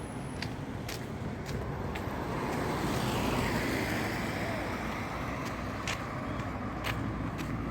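Road traffic running steadily. A vehicle passes close about three seconds in, its sound swelling and dropping in pitch as it goes by. Scattered sharp clicks sit over the traffic.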